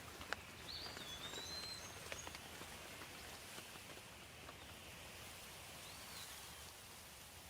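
Steady light rain, a soft even hiss with scattered louder drips. A bird gives short whistled calls about a second in and again around six seconds.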